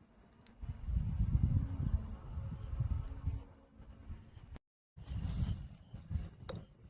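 Crickets chirping in a steady, high, pulsing trill under a louder, uneven low rumble that starts about half a second in. The sound drops out completely for a moment a little past the middle.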